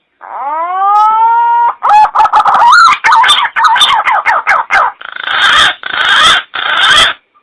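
Green pigeon (punai) lure call: a rising whistled note, then a quick run of warbling notes, then three harsh rasping notes before it stops abruptly.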